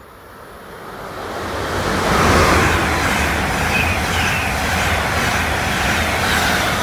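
Deutsche Bahn ICE 4 high-speed train passing. The rushing of wheels on rails and air grows over the first two seconds as it approaches, then holds steady and loud as the carriages run by.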